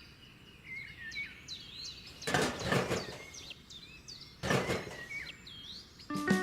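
Small birds chirping and tweeting in quick, pitch-gliding calls, with two louder rushing sounds of under a second each, about two and four and a half seconds in.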